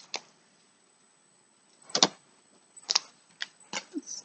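A handful of separate sharp clicks and taps from items and packaging being handled, the loudest about two seconds in.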